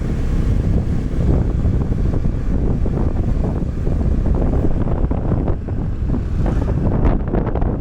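Wind buffeting the microphone while riding, a loud steady rumble, with a few sharp knocks near the end.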